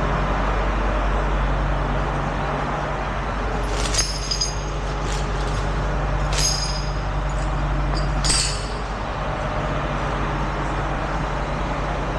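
Truck engine idling steadily, with three sharp metallic clinks about two seconds apart as towing hardware is handled.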